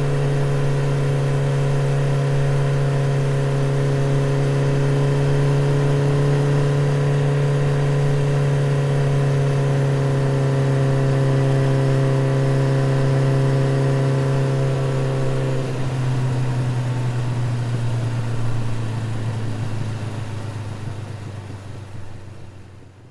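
Motorcycle engine running at a steady speed, then dropping to a lower pitch as it slows about two-thirds of the way through, and fading out at the end.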